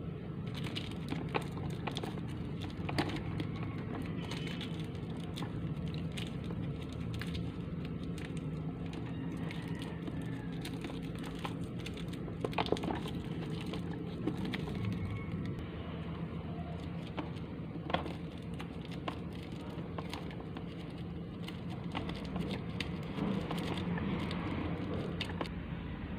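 Scattered small clicks and taps of hands handling a neck fan's parts during repair, over a steady low hum.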